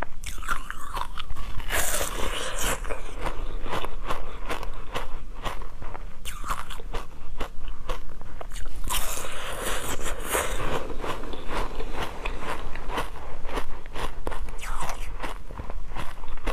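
Close-miked crunching and chewing of a crisp, hard food, with rapid crackling clicks throughout and two louder stretches of crunching, about two seconds in and again around nine to eleven seconds.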